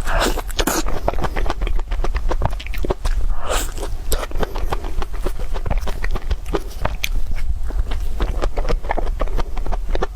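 Close-miked eating: a person biting and chewing crunchy food, a dense run of sharp crackling crunches.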